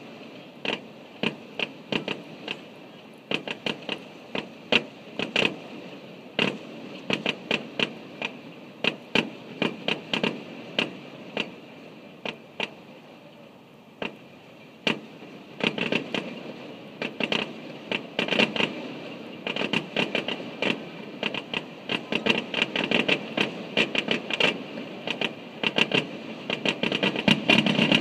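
Aerial fireworks shells bursting in a finale: a rapid, irregular string of bangs. They thin out briefly about halfway through, then come thicker and faster toward the end.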